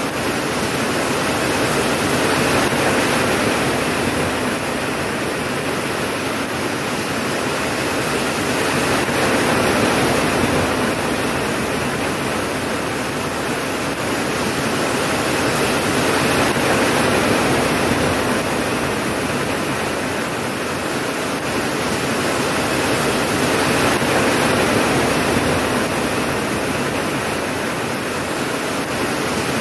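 Rain falling steadily in an even hiss, swelling and easing gently every seven seconds or so, with no thunderclaps.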